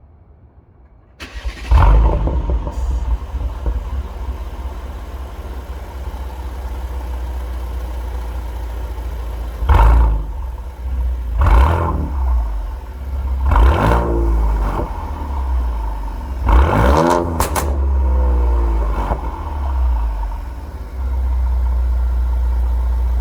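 Mercedes-Benz CLS400's twin-turbo V6 through a straight-piped, variable-valve exhaust, starting about a second in with a loud flare, then idling. It is revved in about five quick blips, each falling back to idle, and holds a higher steady note near the end.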